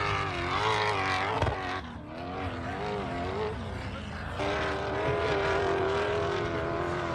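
Off-road vehicle engines running and revving, their pitch wavering up and down. A steadier engine note takes over about four seconds in.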